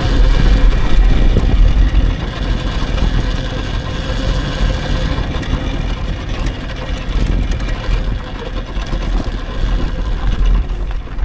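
Wind buffeting the microphone and rolling noise while riding an electric dirt bike, a steady rumble that rises and falls without a break.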